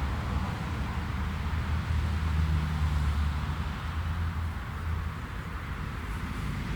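Jet airliner engines rumbling steadily with a rushing hiss, the rumble easing a little in the second half.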